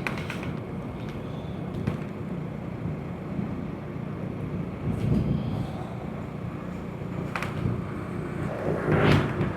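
Honda Pridor 100cc single-cylinder four-stroke motorcycle engine running steadily while riding, with road and wind noise. Near the end a louder rushing swell rises over it.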